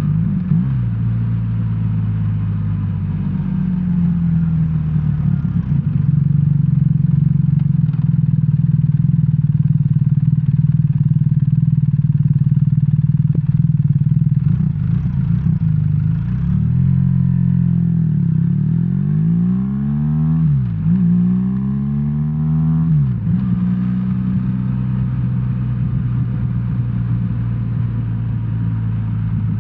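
BMW R1300R's boxer twin engine heard from the rider's seat, running at a steady pitch. In the middle its pitch climbs and drops sharply about three times as it is shifted through the gears, then it settles back to a steady run.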